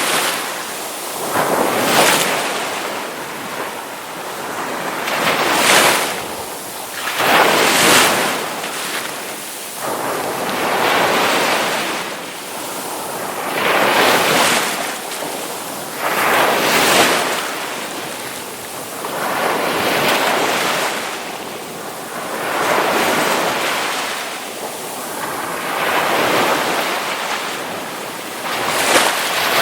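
Ocean waves breaking on a shore, one surge of surf every two to three seconds, each rising and washing away.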